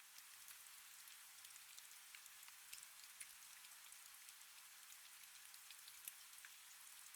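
Faint steady rain: a soft hiss with many scattered light drop ticks.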